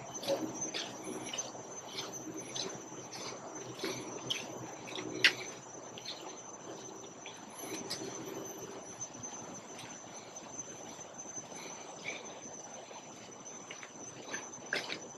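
Steady high-pitched drone of insects in tropical forest, with short sharp ticks about twice a second over the first several seconds, most fitting footsteps on the trail.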